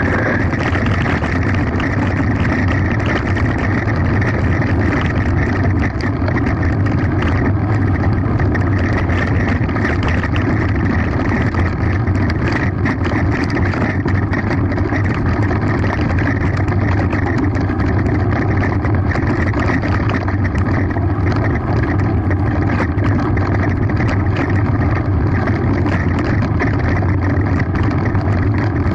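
Continuous rumble and rattle of a mountain bike running fast downhill over a rough gravel road, tyres crunching on loose stones, with wind buffeting the microphone.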